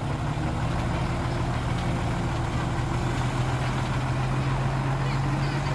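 Heavy diesel engine of earthmoving machinery running steadily at constant speed, a low even drone.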